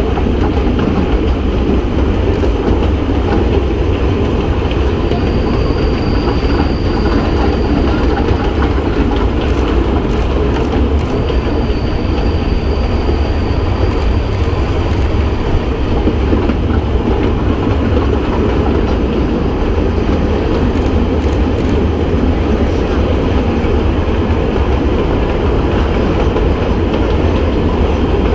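Kurobe Gorge Railway narrow-gauge train running steadily, heard from an open-sided carriage: a continuous rumble of wheels on rail with some clickety-clack. A faint high squeal comes and goes twice in the first half.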